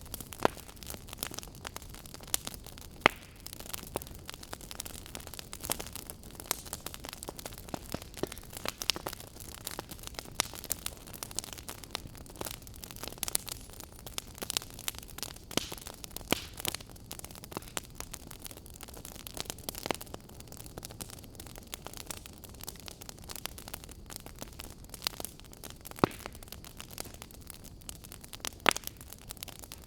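Fireplace fire crackling steadily over a soft hiss, with irregular small pops and a few louder snaps, one about three seconds in and two near the end.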